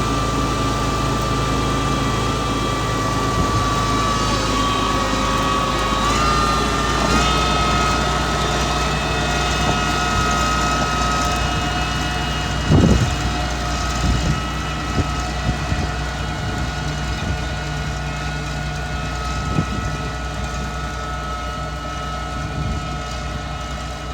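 Mitsubishi MG430 motor grader's diesel engine running steadily with a high whine that steps up in pitch about six seconds in. A single knock comes about halfway through, followed by a few lighter ones.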